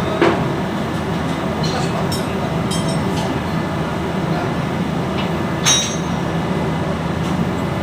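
Steady low machinery drone, with sharp metal-on-metal clinks of parts or tools being handled: one just after the start and a ringing one about five and a half seconds in.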